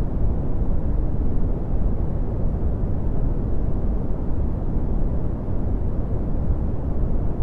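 Steady red (Brownian) noise: an even, deep rumbling hiss with its energy in the low end and little treble.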